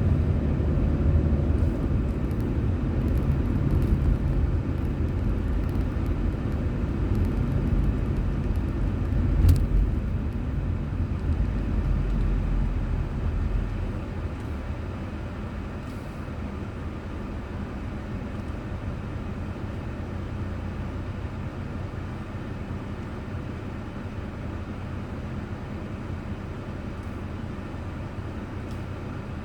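Car driving on a road, heard by a dashcam: a steady low rumble of road and engine noise that grows quieter about halfway through, with a single sharp click about nine seconds in.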